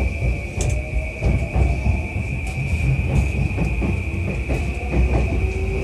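In-car running noise of a JR East E235 series electric train as it gathers speed. The traction motors whine with a slowly rising pitch over a heavy rumble of wheels on rail, with frequent clicks from the wheels and a constant high tone throughout.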